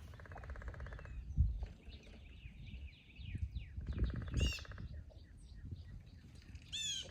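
Several wild birds calling outdoors, with many short chirps and whistles and a buzzy rattling call repeated about three times. Low rumbling thumps come through about one and a half and four seconds in.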